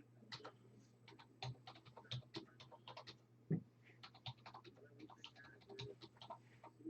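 Faint, rapid, irregular light clicks and taps, with one louder knock about halfway.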